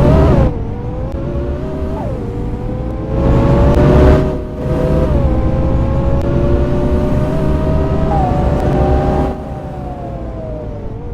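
Scania K230UB city bus's engine and Voith automatic gearbox heard on board while the bus pulls away. The engine note climbs and drops back at each gear change, several times.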